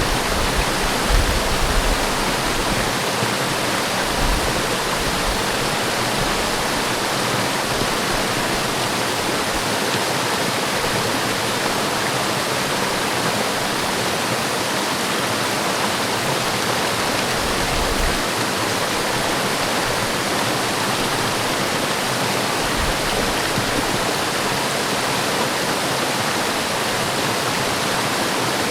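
Waterfall crashing steadily, a dense even rush of falling water, with a few brief low rumbles, most of them in the first two seconds.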